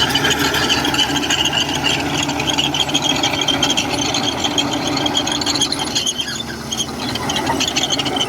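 Komatsu bulldozer's steel crawler tracks squealing and clicking as they run, over its steadily running diesel engine.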